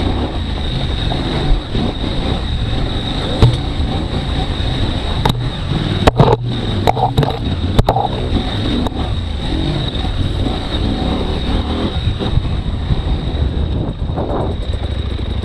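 KTM 790 Adventure R's parallel-twin engine running under load over a rough trail. Several sharp knocks and clatters come from about five to nine seconds in.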